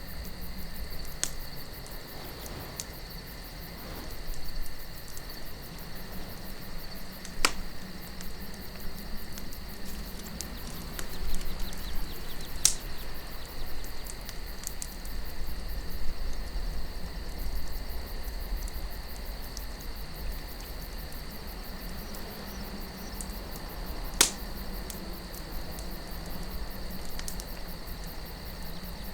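Campfire of burning wood crackling, with a few sharp pops, the strongest about a quarter, two fifths and four fifths of the way through, over a low wind rumble and a steady high trill of night insects.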